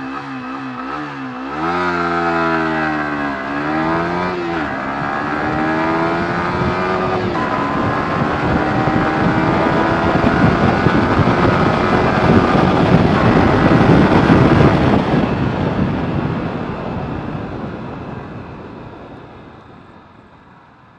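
Yamaha R15 V3's 155 cc single-cylinder engine accelerating hard from a standing start: the pitch climbs in each gear and drops at each upshift, three quick shifts in the first eight seconds and then a long pull in a higher gear, with wind rush growing loud as speed builds. About fifteen seconds in the throttle is shut and the engine and wind die away as the bike brakes down.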